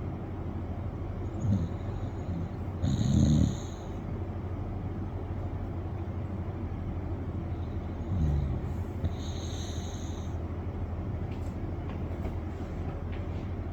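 A dog snoring in its sleep. It takes slow breaths about six seconds apart, each a low snore followed about a second later by a louder snore with a high, whistling edge.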